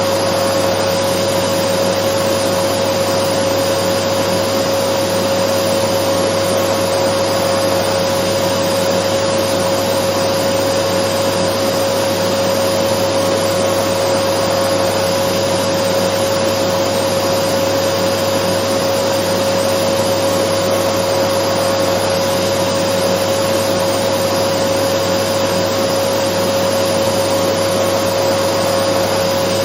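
Dyson vacuum cleaner running steadily: a constant airy rush with a steady mid-pitched whine over it, played as white noise to soothe a baby.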